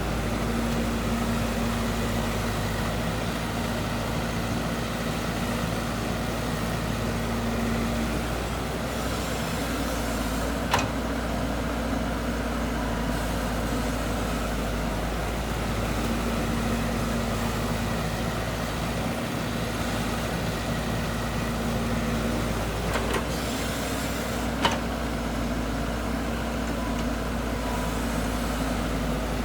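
Diesel engine of heavy earthmoving machinery running steadily, its hum swelling and easing a little, with two sharp metallic knocks about fourteen seconds apart.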